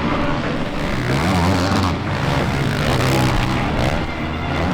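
Motocross bike engines revving hard, their pitch rising and falling through the gears and throttle changes.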